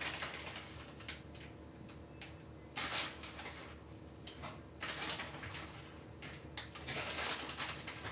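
Kitchen handling sounds while a lasagna is being assembled: four short hissy scrapes, about two seconds apart.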